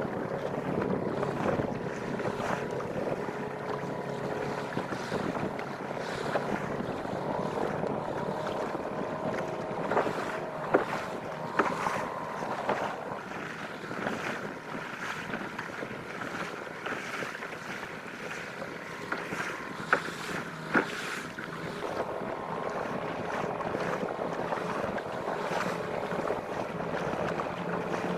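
Outboard motor running steadily on a wooden fishing canoe under way at sea, with wind buffeting the microphone and water splashing around the hull. A few sharp knocks stand out, about ten to twelve seconds in and again around twenty.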